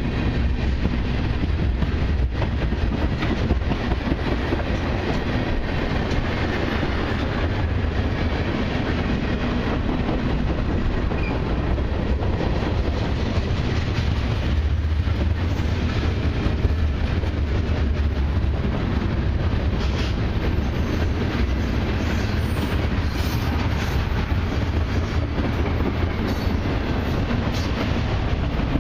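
Freight train cars rolling past at close range: a steady low rumble with wheels clacking over the rail joints.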